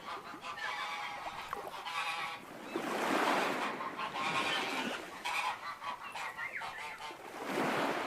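Geese honking, several harsh calls overlapping in bouts.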